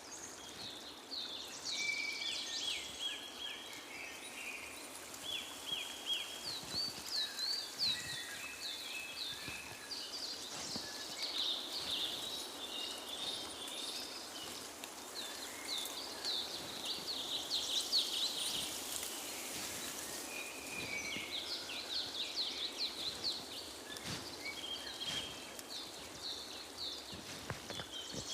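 Several songbirds singing and chirping over one another, with rapid trills and short sweeping notes, over a steady background hiss.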